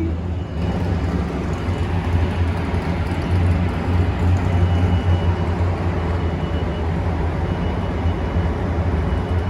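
Steady low rumble of background noise, with a faint high tone coming and going.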